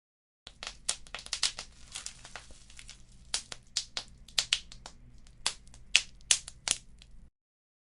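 Wood fire crackling: a quick, irregular string of sharp pops and snaps over a faint low hiss. It starts about half a second in and cuts off abruptly to dead silence near the end.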